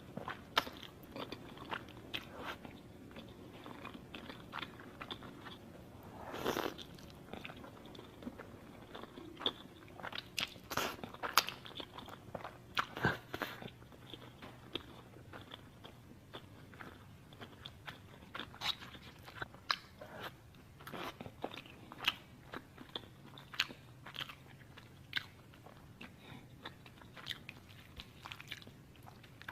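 Close-miked eating: crunchy bites and chewing, with many sharp, irregular crunches and a longer, louder crunch about six seconds in.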